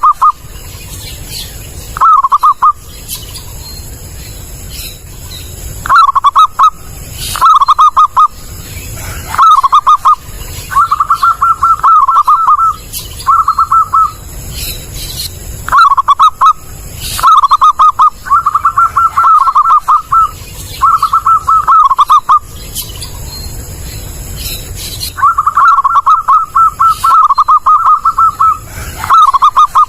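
Zebra dove (perkutut) cooing: about a dozen phrases of quick, stuttering coos, each half a second to two seconds long, separated by short pauses.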